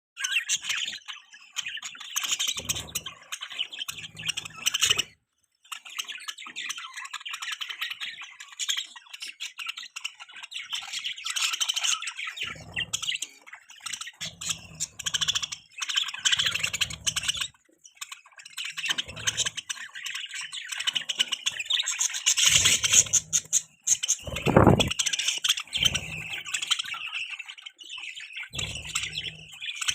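Budgerigars chirping and chattering without pause, a busy mix of high twittering calls and squawks from several birds, with occasional low thuds, the loudest about 24 seconds in.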